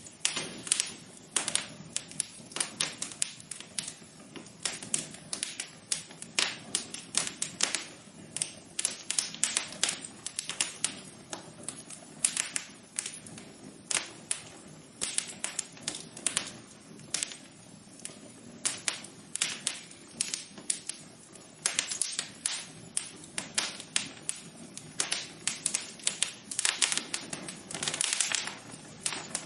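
Wood fire crackling: a steady run of irregular sharp pops and snaps, several a second, over a faint low rush of flames.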